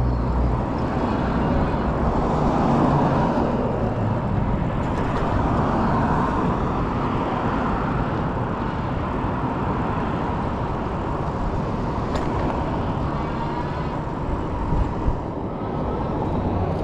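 Street traffic noise heard from a moving e-bike, with wind rumbling on the microphone and a faint steady whine underneath.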